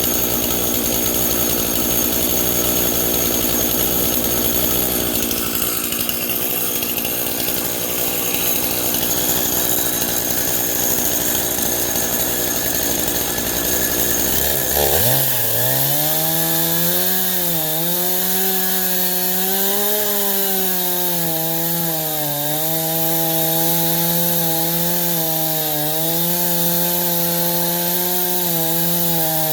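Stihl chainsaw in an Alaskan chainsaw mill ripping lengthwise through a pine log, running hard and steady. About halfway in, the engine note becomes clearer and its pitch wavers up and down as it labours in the cut.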